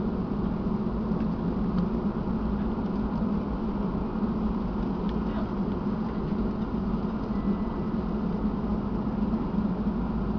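Steady cabin noise inside a Boeing 757 taxiing to the gate after landing: a low, even drone from the idling engines and cabin air.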